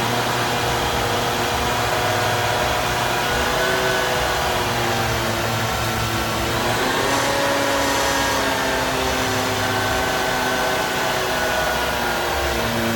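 Hook-lift truck running with a steady mechanical whine whose pitch drifts slowly, rising briefly about seven seconds in.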